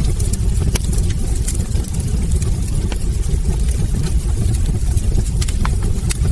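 Log fire burning in a fireplace: a steady low roar of flames with irregular sharp crackles and pops from the burning wood.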